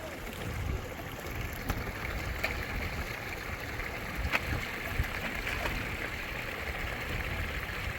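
Steady rush of flowing water with a low rumble underneath and a few sharp clicks or knocks.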